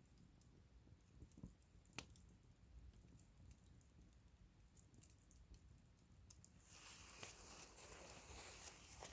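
Wood fire crackling faintly, with scattered small snaps (one sharper pop about two seconds in), turning into a denser run of crackles about two-thirds of the way through.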